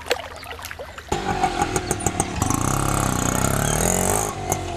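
A vehicle engine as a car drives up, coming in suddenly about a second in, its pitch sinking as it slows.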